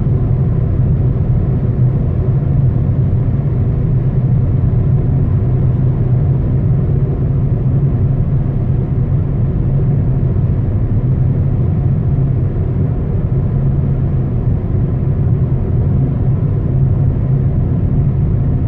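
Steady low rumble of road and engine noise heard inside the cabin of a 2013 Ford Fiesta driving along a highway, with an even drone that does not change pitch.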